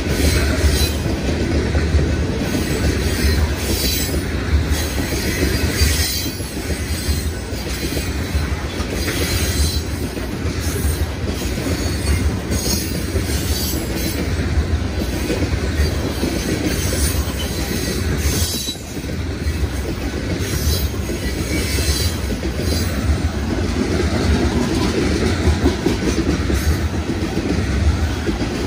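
BNSF freight train rolling past, its cars giving a steady rolling noise on the rails with repeated clicks of wheels over rail joints.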